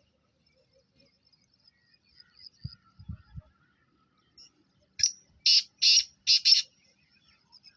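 A bird gives four or five loud, harsh squawking calls in quick succession about five seconds in, over faint high chirping. A few dull low thumps come a couple of seconds earlier.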